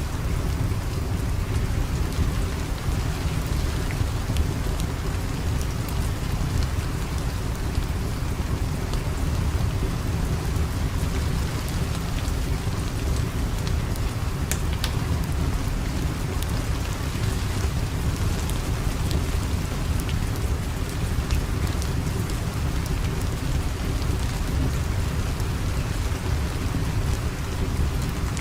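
Steady rain ambience with a deep, continuous low rumble and scattered sharp crackles of a wood fire.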